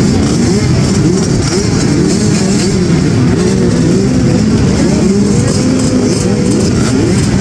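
Several small youth dirt-bike engines revving at once, their pitches rising and falling and overlapping.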